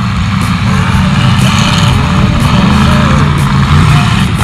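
Demolition-derby car engines revving, mixed with a rock song whose drum beat falls about once a second.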